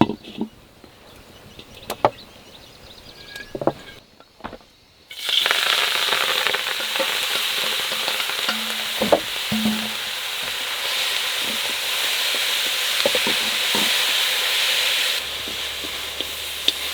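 Food frying in a hot pan, sizzling loudly; the sizzle starts suddenly about five seconds in, after a few scattered knocks, and runs on steadily with occasional knocks.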